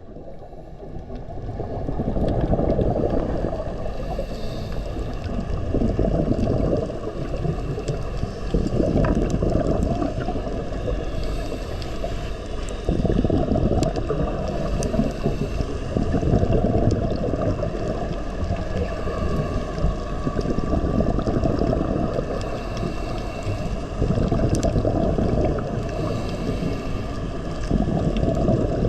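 Low, muffled rushing of moving water that swells and fades every few seconds.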